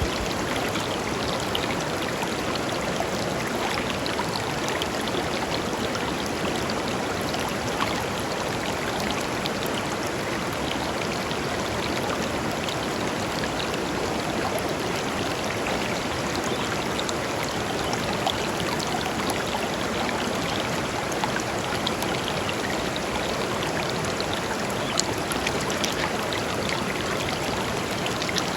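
A shallow river flowing over stones: steady rushing and babbling water with small splashes.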